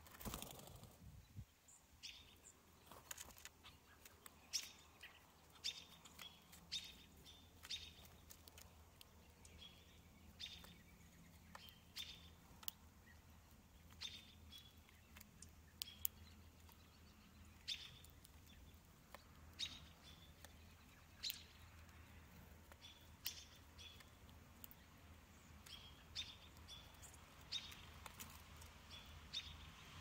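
Small birds giving short, high chip calls, roughly one or two a second, over a faint background hum, with a brief rush of noise right at the start.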